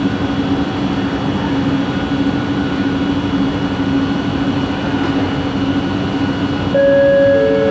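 Bombardier Innovia ART 200 train running, a steady hum with a constant motor tone over the rumble of the ride. About a second before the end, new steady higher tones come in and it gets louder.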